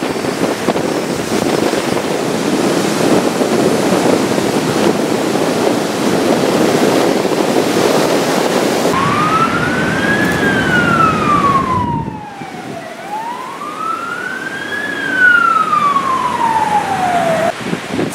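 Heavy wind and surf noise, then an emergency vehicle siren wailing in two slow rising-and-falling sweeps over the second half.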